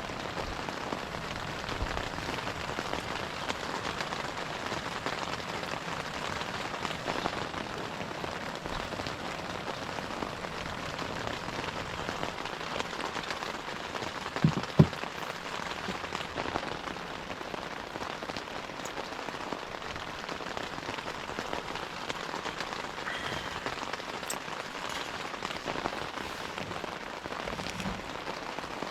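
Steady rain falling on a surface, an even hiss of drops. Two sharp knocks come close together about halfway through.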